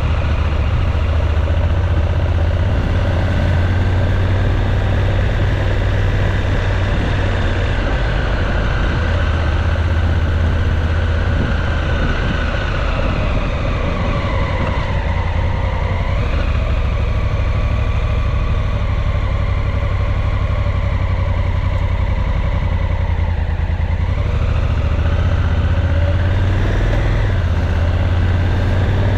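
Motorcycle engine running on the road over a steady low rumble. Its pitch sinks about halfway through, jumps back up, then dips again and climbs near the end as the throttle and gears change.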